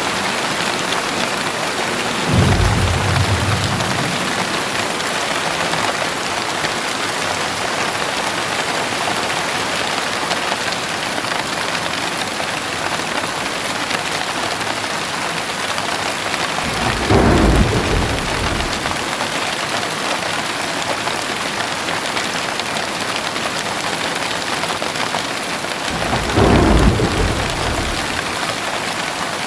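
Heavy rain falling steadily, with three low rumbles of thunder: one about two seconds in, one a little past halfway, and one near the end.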